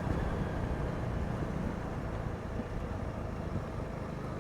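Steady rumble of a motorcycle on the move, engine noise mixed with wind noise.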